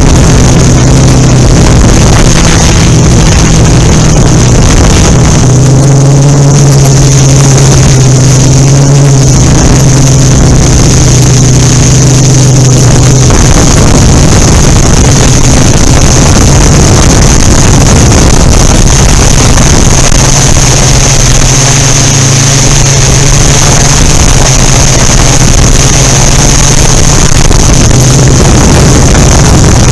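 Yuneec Typhoon Q500 4K quadcopter's motors and unbalanced carbon fiber propellers humming steadily in flight, with wind buffeting the microphone. The hum is strongest for the first half, sinks into the wind noise for several seconds midway, then returns.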